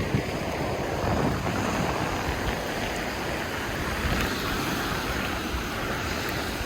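Ocean surf washing onto the beach, a steady wash of noise, with wind buffeting the phone's microphone.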